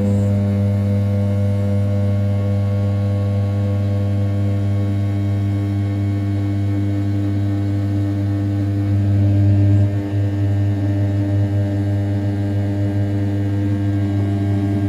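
500 W brushless spindle of an RZ420 desktop CNC mill running at 6000 rpm with an end mill rough-cutting A7075 aluminium around the outer edge. It makes a steady, loud hum with a strong low pitch, swells near nine seconds and dips briefly about ten seconds in.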